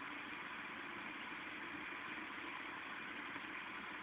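Steady hiss of heavy rain falling during a thunderstorm, with a faint low hum underneath.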